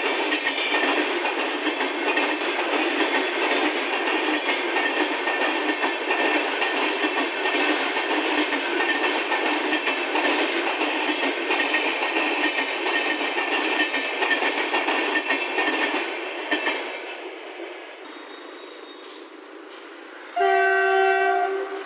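A passenger train's coaches rolling past at speed, their wheels running over the rails with a steady high ring over the noise, which fades away about 16 seconds in. Near the end a train horn sounds once for about a second.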